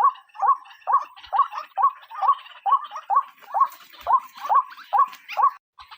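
White-breasted waterhen calling: a steady series of short rising notes, about two a second, broken off briefly near the end.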